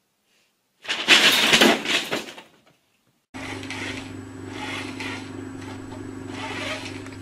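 Loud crackling of a crumpled brown paper bag for about a second and a half, then, after a short silence, a steady low hum with faint rustling.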